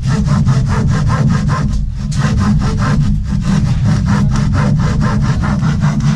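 Saw cutting wood in fast, even rasping strokes, about six a second, over a steady low hum.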